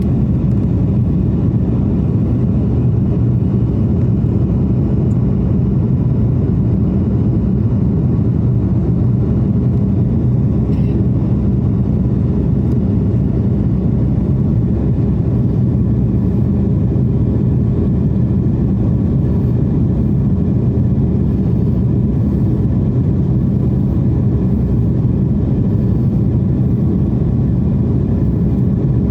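Steady low drone of an airliner cabin in flight: jet engine and airflow noise, even in level throughout.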